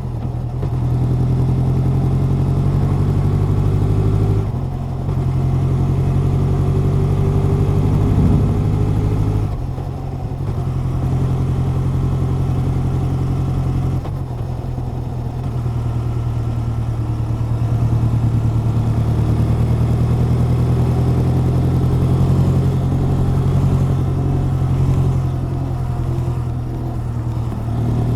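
Honda CB1100's air-cooled inline-four running under way. The exhaust note holds steady, dips briefly a few times and then picks up again.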